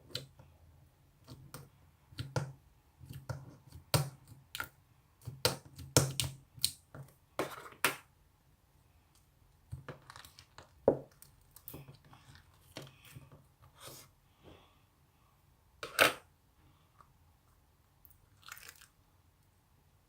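Slime being squished and worked by hand, giving irregular sharp clicks and pops in quick clusters, some louder snaps about six and sixteen seconds in.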